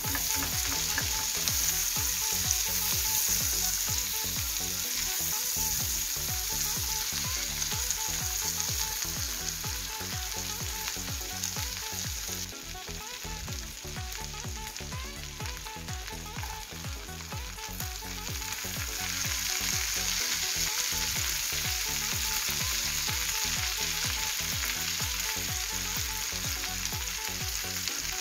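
Cherry tomatoes and onion sizzling in hot fat in a frying pan. The sizzle is steady, eases off for several seconds about halfway through, then picks up again.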